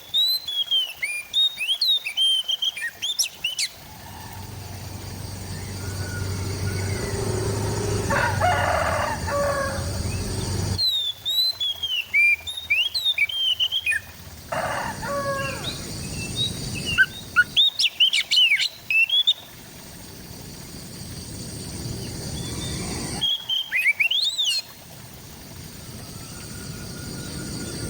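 Oriental magpie-robin (kacer) singing in short bursts of rapid, sharply rising and falling whistled and chirping notes, with pauses between the bursts. A lower, drawn-out call sounds about eight seconds in and again around fifteen seconds, and the recording cuts abruptly between some phrases.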